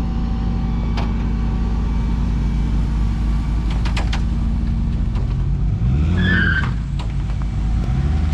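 Rollback truck's big-block 366 V8 running steadily, with a couple of sharp clicks and a brief squeak about six seconds in.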